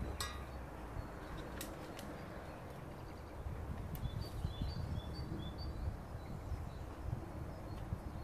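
A bird chirping a string of short high notes about four to six seconds in, over a steady low rumble, with a few sharp clicks in the first two seconds.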